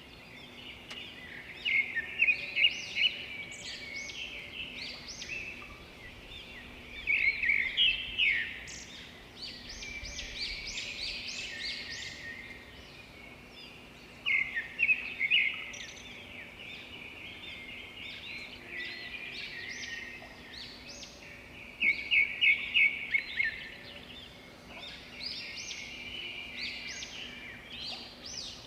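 Birds chirping and singing, with a loud quick run of repeated notes coming back about every seven seconds.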